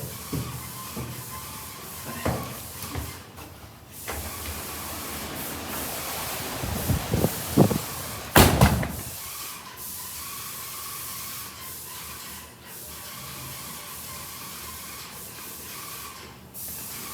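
Heavy thunderstorm rain hissing steadily while strong wind gusts buffet the microphone, the loudest gusts coming in a cluster around the middle.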